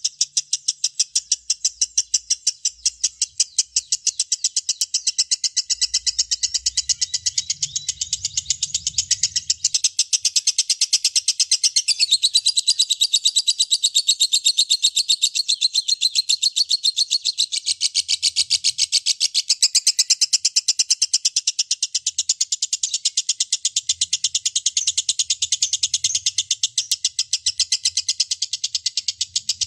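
Lovebird singing a long ngekek: an unbroken, rapid run of high, sharp chirping notes, several a second, going on without a pause.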